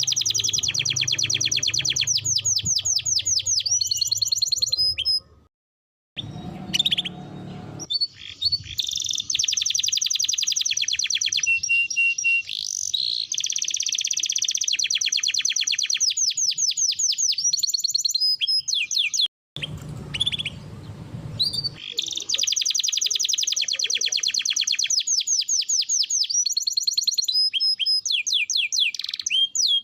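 Domestic canary singing long, rapid rolling trills of repeated high notes, in several runs with brief abrupt breaks.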